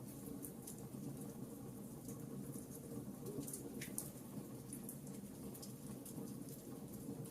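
Campfire crackling: scattered sharp pops and snaps over a steady low rumble of burning wood.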